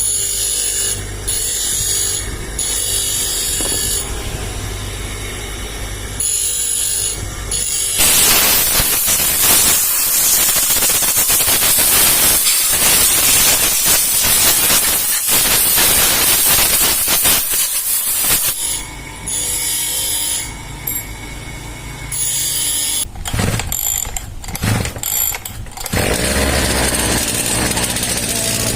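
Workshop tool sounds from work on a brushcutter. A loud power tool runs for about ten seconds in the middle, between stretches of quieter hum and mechanical clicking that start and stop.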